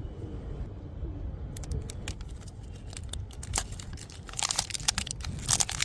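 Crinkling and crackling of something being handled: a run of sharp crackles starts about a second and a half in and grows denser near the end, over a low rumble.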